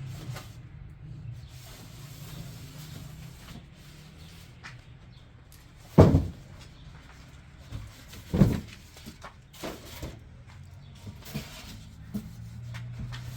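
Two sharp knocks about two and a half seconds apart, with a few fainter taps, over a low steady hum.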